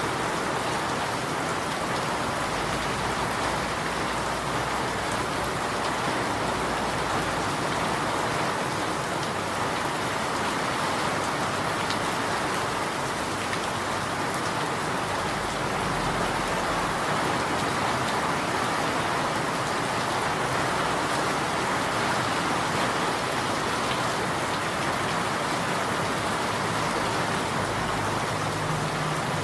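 Steady rain falling, an even hiss that stays constant throughout, with no thunder.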